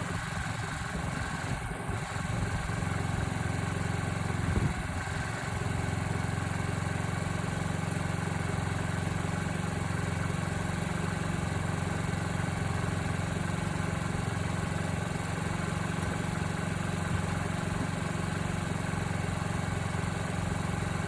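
A 2020 Honda Ruckus scooter's 49cc four-stroke single-cylinder engine idling steadily on fresh oil just after an oil change.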